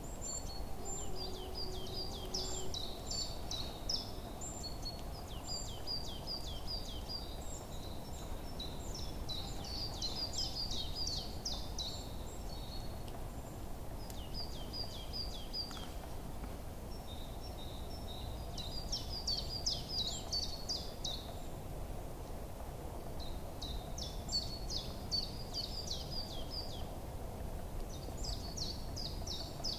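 Small birds singing: clusters of quick, high chirps and trills come every few seconds over a steady low background hiss.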